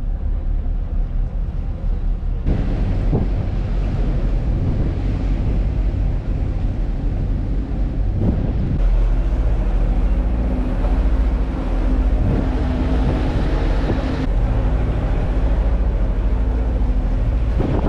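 Boat engine running steadily at low pitch, with wind buffeting the microphone and water noise over it.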